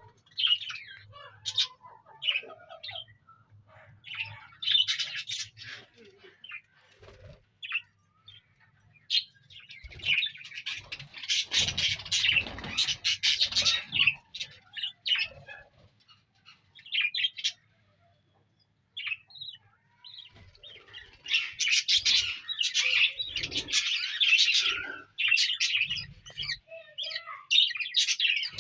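Budgerigars in a colony aviary chirping and chattering, with many short high calls that swell into dense bursts of chatter twice and drop to a brief lull in between.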